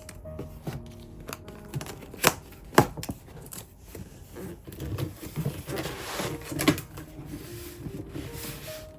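Packaging being handled during a gift unboxing: several sharp taps and clicks, then paper or plastic rustling and crinkling about five to seven seconds in, over soft background music.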